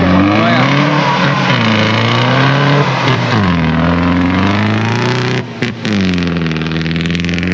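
An off-road 4x4's engine revving hard under load, its pitch rising and falling several times as the throttle is worked. The engine has the same roar as a Troller's.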